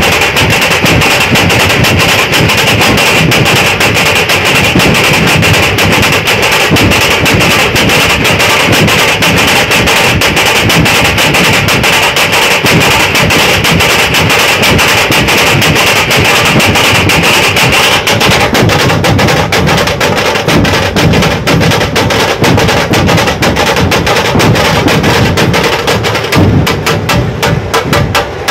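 Dhol-tasha troupe drumming: massed dhol barrel drums and tasha drums beating a fast, dense rhythm, loud and unbroken. The strokes turn sparser near the end.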